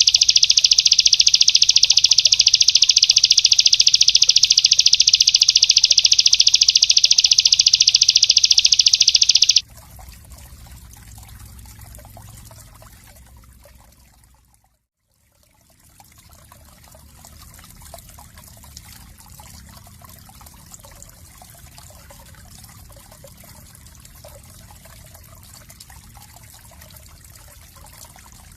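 A small songbird's dense, very rapid high-pitched trill of tightly packed notes, which cuts off suddenly about ten seconds in. After it comes a faint trickling of water, broken by a moment of silence.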